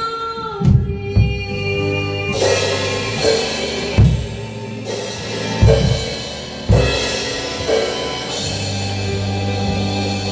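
Drum kit played along to a backing track: a few spaced hits on the bass drum and crash cymbals, a second or more apart, over sustained accompaniment.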